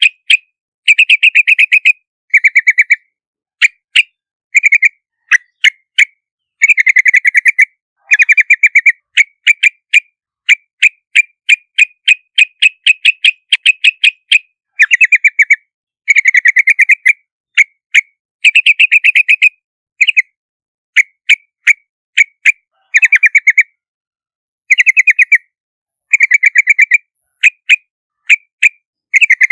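Yellow-vented bulbul (Pycnonotus goiavier) calling: a loud series of bright chattering trills and short sharp chirps that start and stop in quick phrases, with brief gaps between them.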